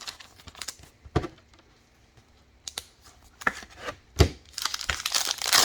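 Trading cards being handled and flipped, in scattered clicks and taps with a louder knock about four seconds in. Near the end comes the crinkling tear of a foil card pack being opened.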